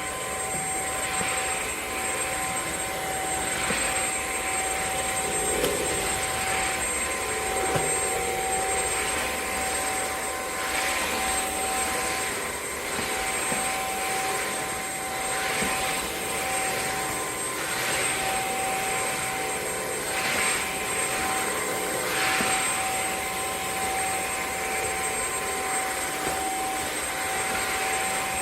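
Bissell CrossWave OmniForce wet-dry vacuum cleaner running, its motor giving a steady whine under a hiss that swells and fades every couple of seconds.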